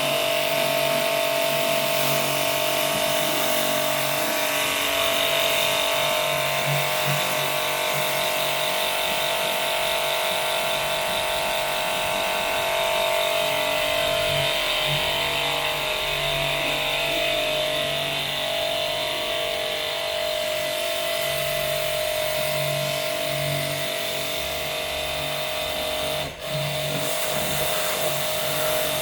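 Electric motor-driven machine running steadily with a constant whine made of several steady tones, briefly cutting out for a moment near the end.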